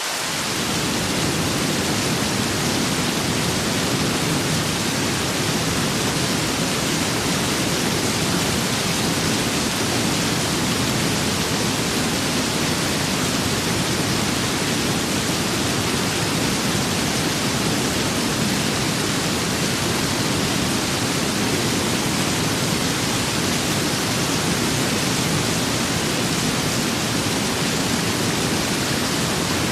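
Steady rain and wind ambience: an even, unbroken hiss, with a deeper rush filling in just after the start.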